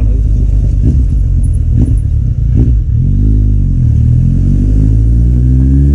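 Kawasaki Z800's inline-four engine through an Akrapovic exhaust, running under load and then accelerating, its pitch rising steadily from about halfway.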